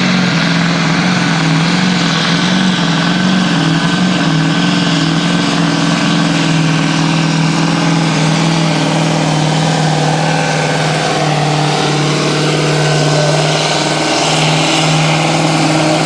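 Loud Scania V8 diesel truck engine running hard at high, nearly steady revs under full load while it pulls the weight sled.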